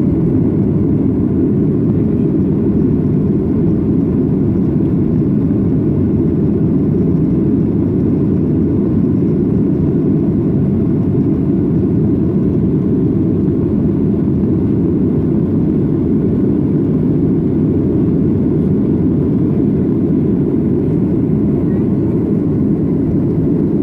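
Steady low rumble of a Boeing 737-800's CFM56 engines and airflow, heard from inside the passenger cabin in flight, unchanging throughout.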